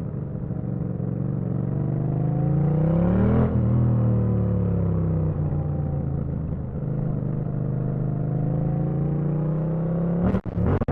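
Yamaha MT-07 parallel-twin motorcycle engine under way: the revs climb for about three and a half seconds, drop sharply, ease down and settle to a steady note. Near the end the sound cuts out briefly twice.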